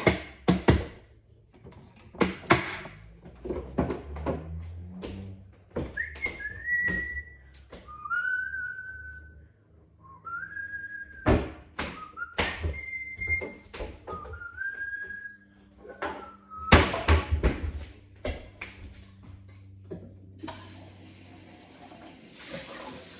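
A person whistling a slow tune of several sliding notes, amid kitchen clatter: sharp knocks and clicks of utensils and dishes.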